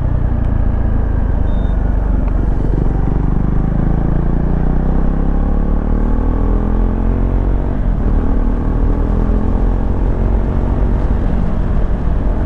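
KTM Duke 390's single-cylinder engine under way, its note climbing steadily through the second half as the bike accelerates, over a constant low rumble of wind. It is heard through a lavalier mic inside a closed-visor helmet.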